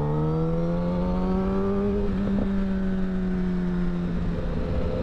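Kawasaki Ninja liter sportbike's inline-four engine with M4 slip-on exhaust under way. Its pitch climbs steadily for the first two seconds, then eases slowly down as the throttle is held and rolled off.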